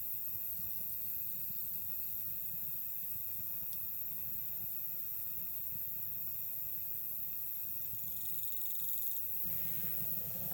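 Night campground ambience around a wood campfire: a steady hiss with insects singing on several steady high notes, and a single sharp crackle from the fire about four seconds in. Near the end one insect trills in a fast pulsing burst for about a second, and the low rumble of the background grows a little.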